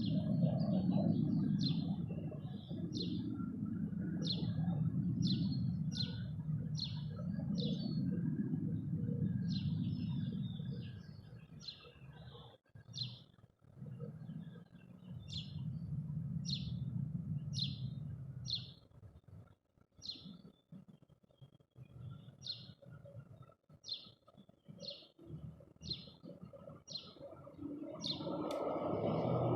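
A small bird chirping over and over, short high chirps about one or two a second. Under it, a low rumble swells and fades several times.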